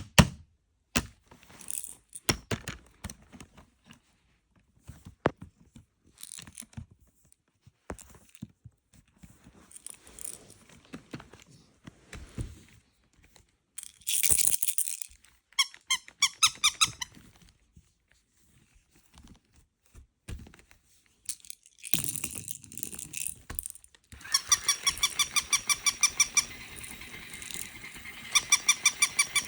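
Squeaky dog toy squeezed over and over as a dog chews it, in rapid runs of high squeaks, one short run about halfway through and a longer unbroken one over the last five seconds. Scattered knocks and clicks come before them.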